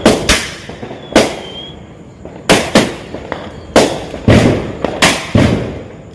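Homemade firecrackers going off one after another: about eight loud, sharp bangs at uneven intervals, each followed by a short rumbling echo.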